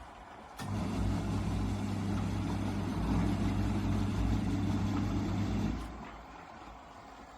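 Motor of a Wiltec portable twin-tub washing machine running its wash cycle with a steady hum. It starts abruptly with a click about half a second in, runs for about five seconds, then winds down and pauses. This is the stop-start pattern of a wash timer reversing the agitator.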